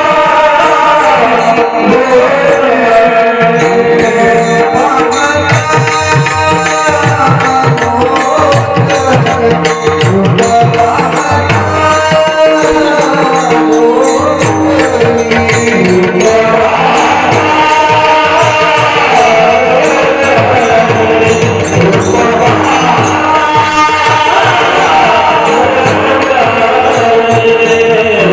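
Devotional Marathi kirtan singing, a voice holding and bending long melodic lines over a steady drum rhythm and jingling hand cymbals.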